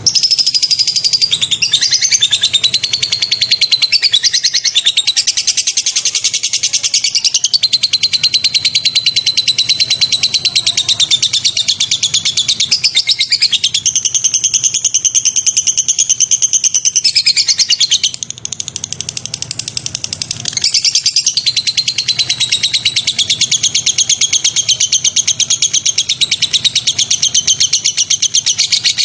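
White-rumped shama (murai batu) singing sharp, rapid-fire 'tembakan' trills: high notes repeated very fast in a nearly unbroken stream, easing off briefly about two-thirds of the way through.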